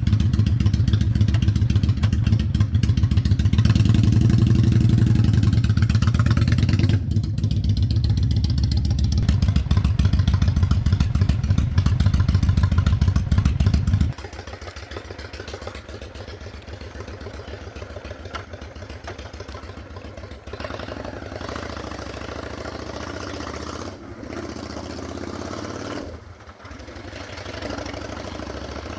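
Honda Shadow 600 V-twin engine running loud under way, with a brief dip about seven seconds in. About halfway through it falls off suddenly to a much quieter, steady running.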